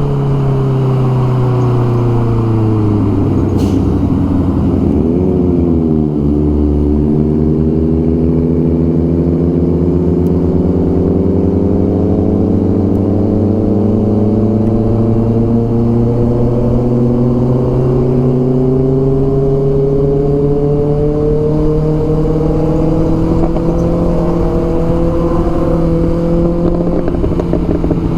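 Honda CBR650R inline-four motorcycle engine under way. The revs fall over a couple of seconds, blip briefly about five seconds in, then climb slowly and steadily through the rest: a long pull under throttle.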